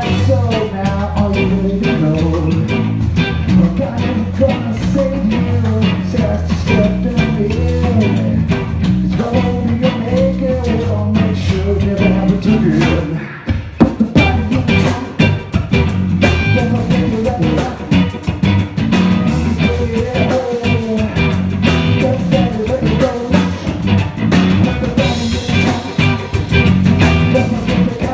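A live funk-rock band plays: electric guitar, a Fender Jazz Bass through an Ampeg SVT amp, and a drum kit. Just past halfway the band drops out briefly, then comes back in on a sharp hit.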